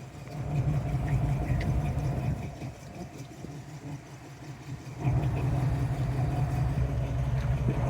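Car engine running with a low rumble, louder for the first couple of seconds, easing off, then louder again from about five seconds in.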